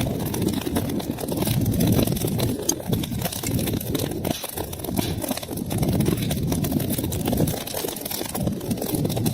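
Wood fire burning: a low rush of flames that swells and eases every second or two, with many small crackles and pops throughout.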